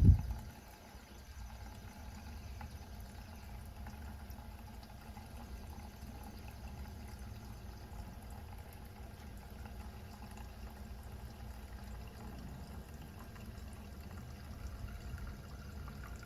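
Gasoline pouring and trickling steadily into a container, after a single knock at the start.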